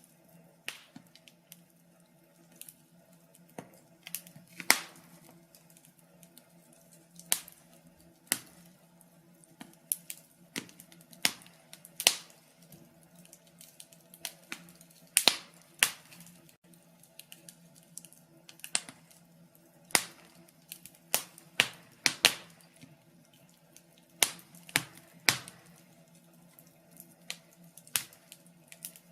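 Wood fire crackling in a fireplace: irregular sharp pops and snaps, roughly one or two a second, some much louder than others, over a faint steady low hum.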